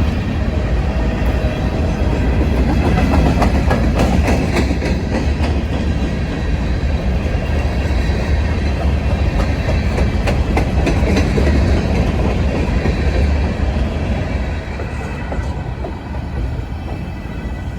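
Norfolk Southern freight train rolling past with a steady low rumble and wheels clicking over the rail joints. It grows quieter over the last few seconds as it moves off.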